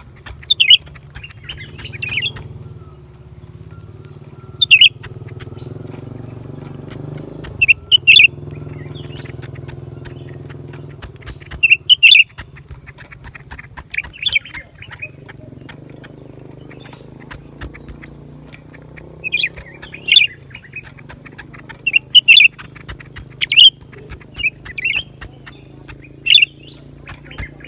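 Blue-winged leafbird calling: short, sharp chirping notes in loud clusters every second or few, with a low steady hum beneath.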